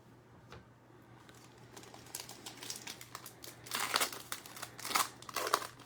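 Plastic trading-card pack wrapper being crinkled and torn open, in irregular crackly bursts that grow louder about halfway through, loudest near the end.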